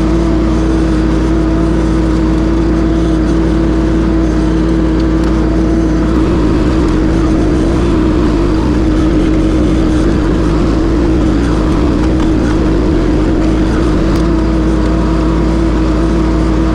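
A mini track loader's engine running hard, driving a hydraulic stump grinder attachment. The steady engine note turns rough and uneven for several seconds in the middle, then evens out again near the end.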